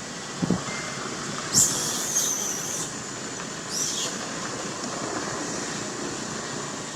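Monkey giving two shrill, high-pitched screeches, the first about a second long and the second short, over steady background noise.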